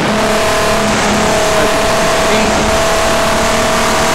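VW Golf R32's 3.2-litre VR6 engine running hard at steady revs on a tarmac rally stage, a constant engine note over dense road and wind noise.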